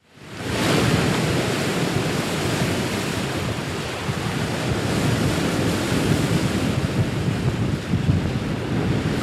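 Steady rushing wind and sea noise, with wind buffeting the microphone over the waves. It fades in during the first second.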